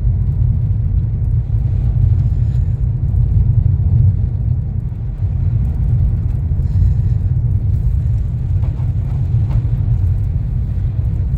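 Steady low rumble of a car driving, heard from inside the cabin: engine and tyres running on a wet road.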